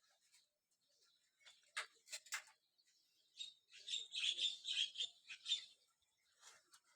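Small birds chirping: a few sharp single chirps about two seconds in, then a quick run of high chirps for about two seconds near the middle.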